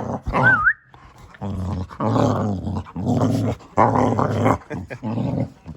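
Boxer dog making a run of short growling, grumbling vocal sounds, about six in a row. A brief high wavering squeal comes about half a second in.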